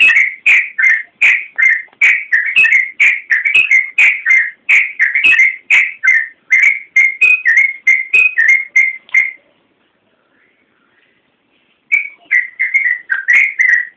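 Yellow-vented bulbul (trucukan) singing a fast, continuous run of short whistled notes, about two to three a second. The song breaks off a little past halfway and starts again after a pause of about two and a half seconds.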